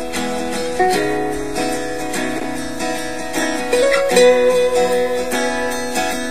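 Background music: a plucked acoustic guitar playing a melody.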